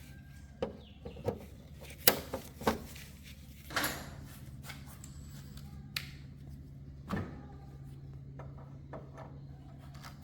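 A few scattered clicks and knocks of handling in a workshop over a faint steady low hum.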